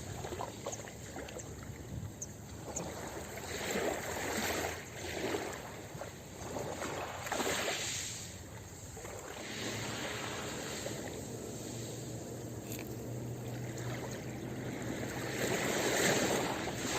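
Ocean waves washing onto a beach, the surf swelling and falling back every few seconds, with a louder surge near the end.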